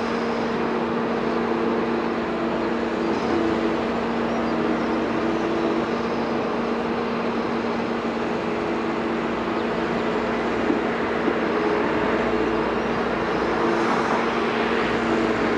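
Liebherr 946 excavator's diesel engine running at a steady hum, with two light knocks about two-thirds of the way through.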